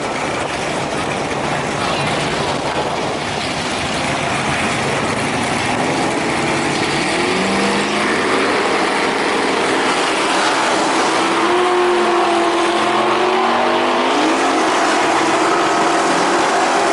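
Drag-racing car engines running and revving, growing slowly louder, with engine notes rising and falling from about seven seconds in.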